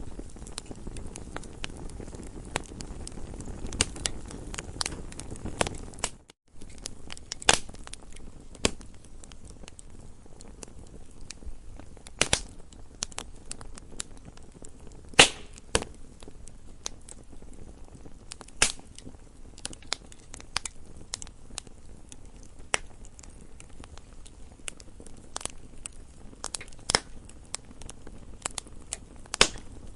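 Campfire crackling: irregular sharp pops and snaps of burning wood over a low steady rush of the flames, with a brief dropout to silence about six seconds in.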